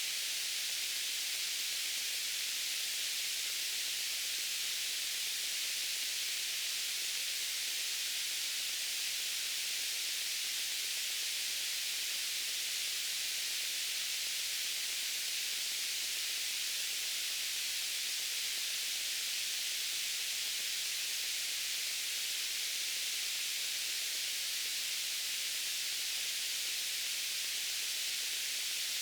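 White noise: a steady, unchanging hiss weighted toward the high end.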